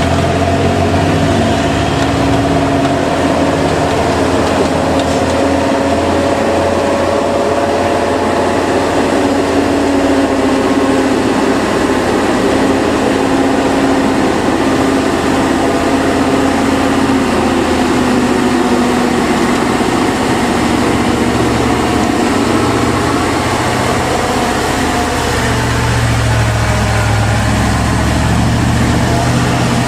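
Truck engine running steadily under road noise, its tone drifting slowly in pitch, with a deeper hum growing stronger near the end.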